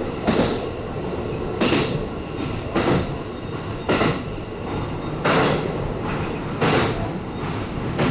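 E257 series electric train running along the track, heard from inside: a steady rumble with the wheels clacking over rail joints about once every 1.3 seconds.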